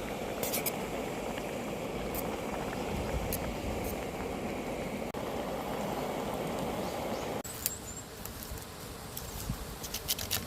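A steady rushing noise that cuts off abruptly about seven seconds in, followed by a quieter background with a few faint clicks.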